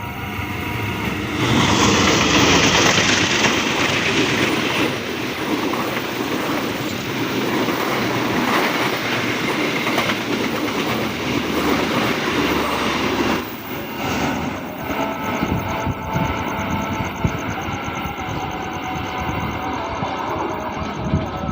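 A train passing close by. The loudest part comes about two seconds in, then the cars keep rolling by with wheels clicking over the rail joints, and the noise drops a little about thirteen seconds in.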